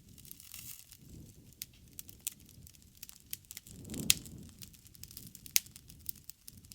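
Bonfire burning: wood crackling with scattered sharp pops over a low rumble of flame, with a louder whoosh and pop about four seconds in.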